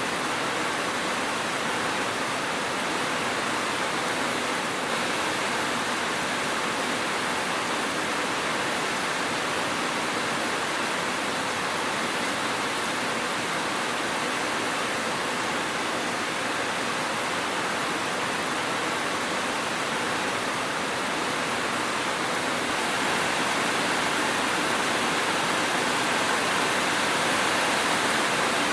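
Steady rainfall, an even hiss of rain with no thunder or separate drops standing out, growing a little louder near the end.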